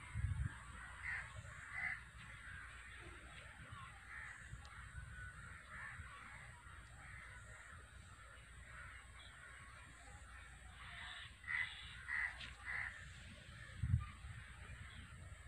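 Birds calling: short runs of harsh, caw-like calls about a second in and again three times in quick succession three quarters of the way through. Low thumps of the microphone being handled come at the start and, loudest, near the end.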